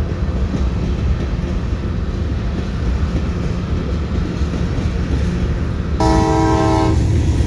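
Train running with a steady low rumble, then a short blast of its horn near the end, lasting about a second.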